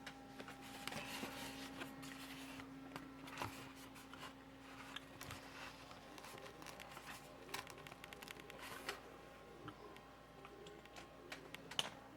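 Faint scattered clicks and light handling rustles over a steady low hum.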